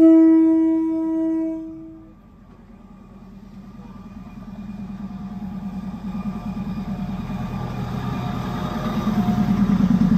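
A train horn sounds one steady blast of about two seconds, then the low, pulsing rumble of the Maeklong line's diesel railcar grows steadily louder.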